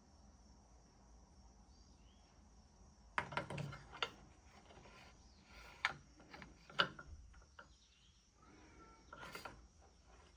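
Faint, scattered clicks, knocks and rubbing of small metal parts being handled, the sounds of an outboard water pump's wear plate, impeller and housing being fitted back together.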